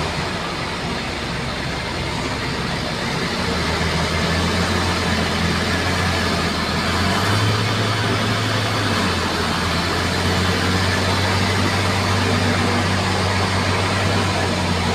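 Bulldozer's diesel engine running steadily as it works, its note a little lower at first and picking up after about three seconds.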